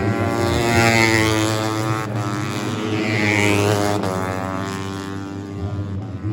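Tuned four-stroke 150cc underbone race motorcycles running at high revs past the track, the engine note swelling twice, about one and three seconds in, then fading.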